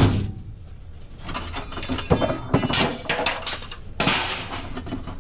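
Scrap metal crashing and clattering, with a loud crash right at the start, a long run of clanging and rattling pieces, and another crash about four seconds in.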